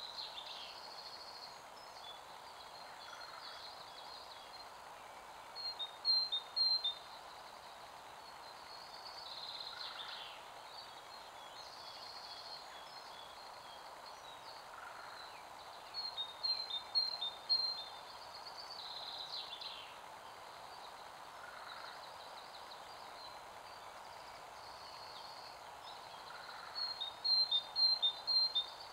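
Wild birdsong over a steady background hiss: a bird repeats a phrase of quick, high notes three times, about ten seconds apart, with fainter calls in between.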